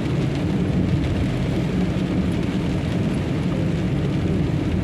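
Truck engine running steadily, heard from inside the cab as a constant low drone.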